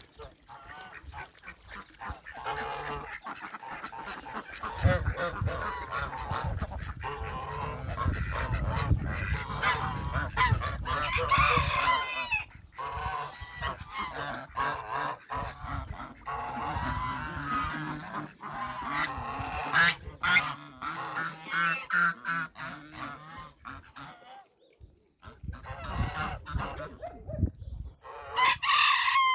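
Flock of domestic poultry calling, many overlapping calls almost throughout. A low rumble runs under the calls for several seconds in the middle, and there is a short lull near the end.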